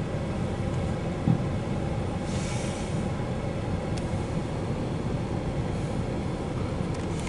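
Steady low rumble of a CSX intermodal freight train rolling past, heard from inside a vehicle cab, with one brief knock about a second in.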